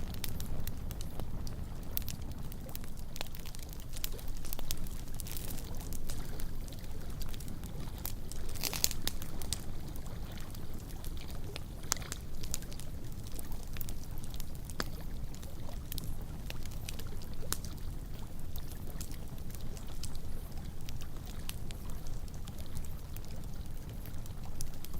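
Wood campfire crackling with scattered sharp pops, a couple louder than the rest, over a steady low wash of loch water lapping at the shore.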